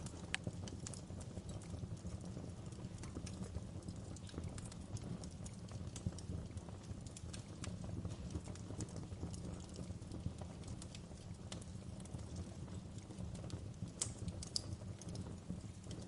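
Wood fire crackling in a fireplace: a steady low rumble of flame with frequent irregular pops and snaps from the burning logs, a few of them sharper and louder.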